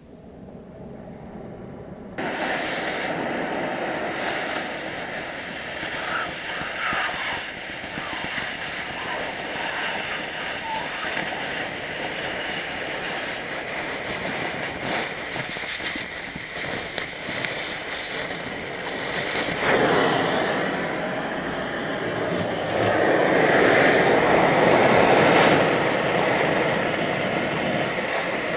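Oxyacetylene cutting torch cutting 1-inch steel plate: a steady rushing hiss that starts suddenly about two seconds in and swells louder twice in the second half.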